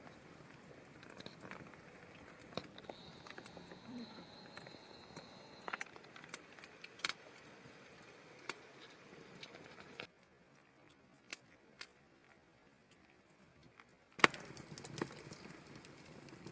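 Wood fire crackling, with scattered sharp pops over a low hiss. It goes quieter about ten seconds in and picks up again near the end.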